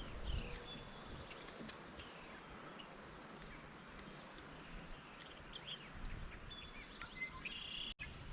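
Songbirds calling over quiet lakeside background: a short trill of quick, high, repeated notes about a second in and again near the end, with a few scattered chirps between.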